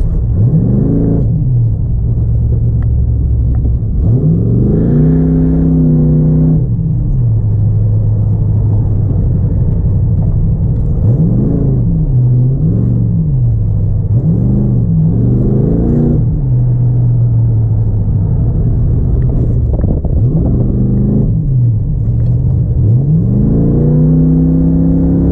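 Third-generation Pontiac Firebird's engine on a hard autocross run, revving up and dropping back again and again as the car accelerates and lifts between cones, over a steady low rumble.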